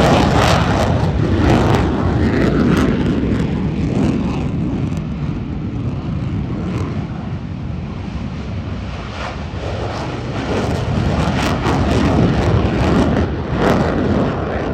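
Airplane flying past: a loud engine rumble that eases off through the middle and swells again near the end, with many short crackles through it.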